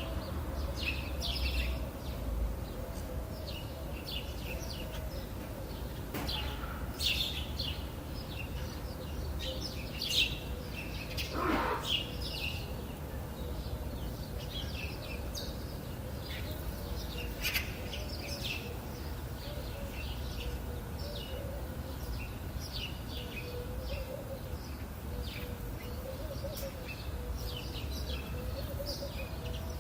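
Small birds chirping and twittering in many short calls, over a steady low rumble.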